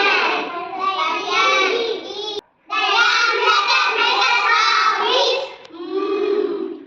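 Young children's voices singing or chanting phonics sounds, with a short pause about two and a half seconds in.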